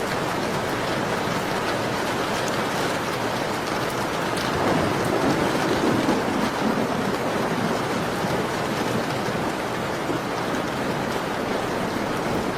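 Steady heavy rain falling, with a fuller, louder swell about five seconds in that lasts a couple of seconds, and a few faint crackles of a wood fire.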